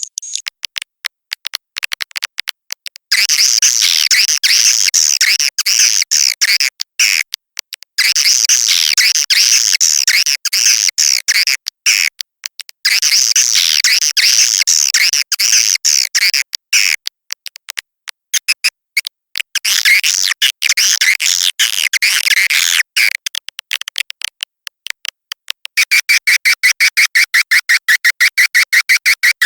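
Swiftlet lure call (SP) recording: bursts of dense, high-pitched swiftlet twittering with rapid clicks between them, changing near the end to a steady fast train of chirps at about seven a second. It is the sound played from swiftlet houses to draw the birds in to roost and nest.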